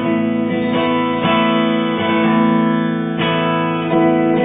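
Acoustic guitar strumming a slow chord accompaniment, with a new strum about every second and the chords ringing on between strums.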